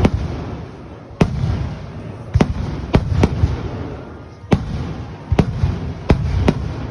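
Fireworks shells bursting overhead: about eight sharp bangs at uneven intervals, some in quick pairs, each followed by a low rumble.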